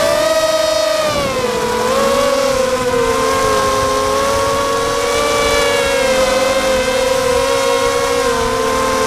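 Quadcopter's electric motors and propellers whining at several close pitches that beat against one another. The pitch dips a little about a second in, then holds steady. Wind rumbles on the microphone underneath.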